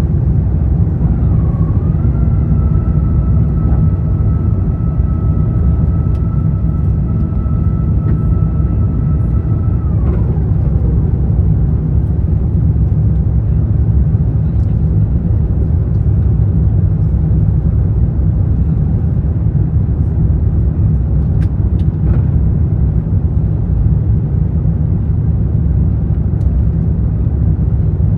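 Steady low rumble of an Airbus A350-900 heard from inside the economy cabin, with a thin whine that steps up slightly about two seconds in, holds, then glides down and fades about ten seconds in.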